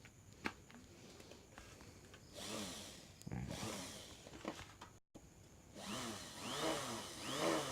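Sewing-machine motor of a homemade mini grinder spinning up and slowing down under its pedal speed control, its whine rising and falling in pitch. It runs twice, with a short break about five seconds in.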